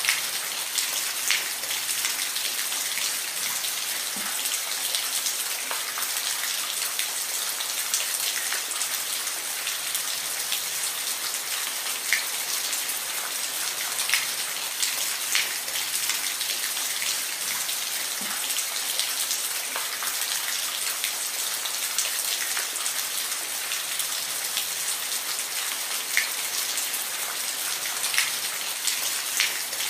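Steady rain falling, a dense even hiss with louder individual drops ticking on a hard surface every few seconds.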